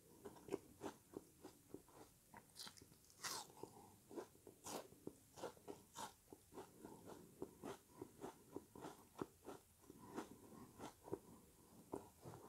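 A person biting and chewing a frozen lemony sponge: a fast run of crisp crunches, about three a second, with sharper bites now and then.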